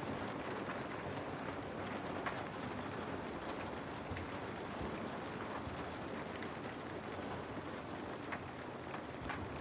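Steady rain, an even hiss with scattered individual drops ticking against a window.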